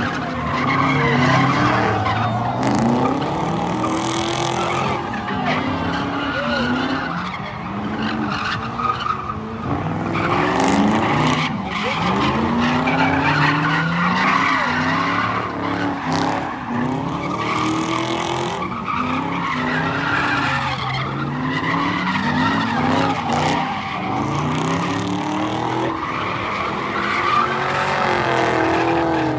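Car engine revving up and down over and over, its pitch rising and falling every second or two, while the tires squeal and skid as the car is drifted around a track.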